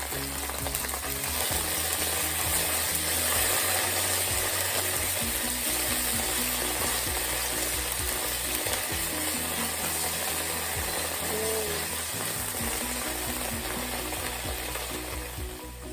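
Red curry paste sizzling in hot sunflower oil as it is stir-fried, with scattered clicks of the utensil against the pan. Soft background music with a steady bass line plays underneath.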